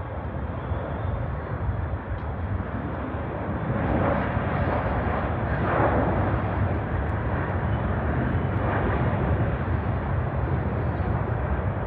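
Jet airliner's engines rumbling as it passes, growing louder about four seconds in and staying loud.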